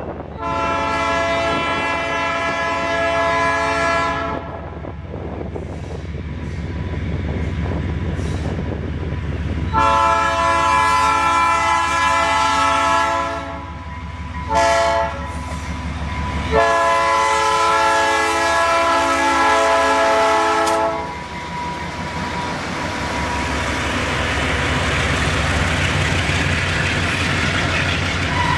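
Freight locomotive air horn sounding the grade-crossing signal of long, long, short, long as the train nears the crossing. After the last blast, the wheels of covered hopper cars rumble and clatter past, growing louder toward the end.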